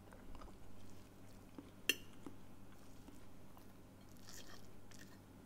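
A man chewing a mouthful of cheese omelette, faintly, with a single sharp click about two seconds in.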